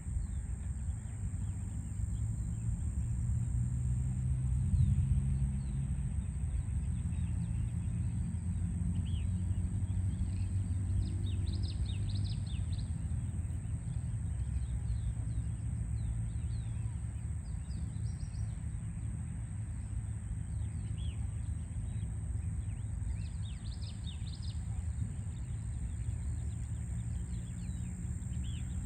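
Small birds chirping in quick clusters of short, high notes, thickest about a third of the way in and again near the end. Underneath is a steady low rumble of distant city traffic, and a thin, steady high whine sits above both.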